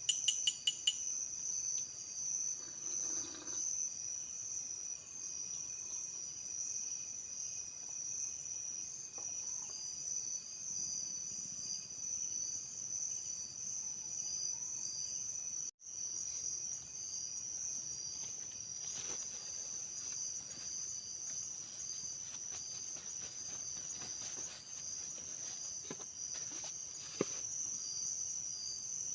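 Insects chirring in a steady, high, even chorus. There are a few quick clicks in the first second and a single sharp tick near the end, and the sound cuts out for an instant about halfway through.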